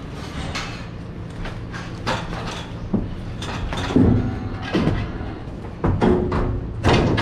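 Dairy cows being moved through a pen: irregular hoof knocks and heavier thuds, the loudest about four, six and seven seconds in, over a steady low hum.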